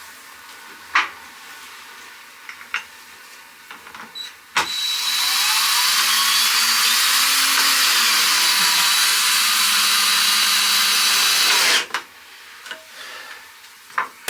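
A few light knocks, then hot water rushing steadily from the sauna water heater's tap into a container for about seven seconds, starting and stopping abruptly.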